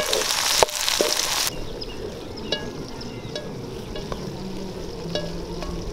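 Shallots, garlic and coriander seeds sizzling in hot oil in a wide aluminium pan, with a metal spatula stirring and knocking against the pan. About a second and a half in, the sizzle drops away suddenly, leaving a quieter background with scattered faint ticks.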